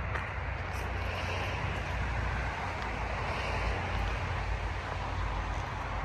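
Steady rumbling outdoor background noise, with a few faint clicks.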